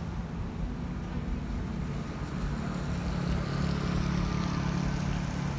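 Road traffic: a motor vehicle's engine hum grows louder from about halfway as it comes close, with tyre hiss on the wet road rising along with it.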